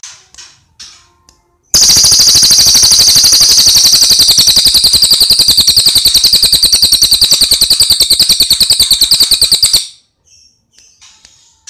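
Cililin songbird singing: a few short high chirps, then a loud, very fast, even trill held for about eight seconds before it stops, with a few more short chirps near the end.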